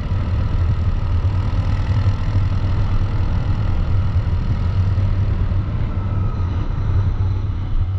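CFMoto ATV engine running steadily, an even low drone.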